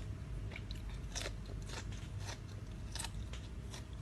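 A person chewing with the mouth close to the microphone: irregular wet, crunchy clicks of a spicy salad of rice noodles and crispy squid being chewed.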